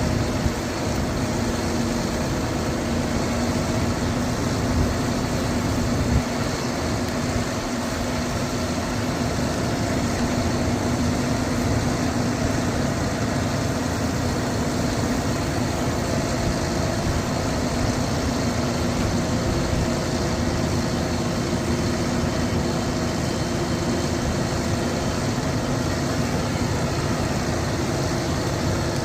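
Diesel engine of a Hyundai concrete pump truck running steadily at an even speed, with a brief knock about six seconds in.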